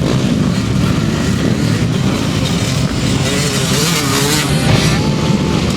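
Motocross motorcycles' engines running and revving loudly on the track.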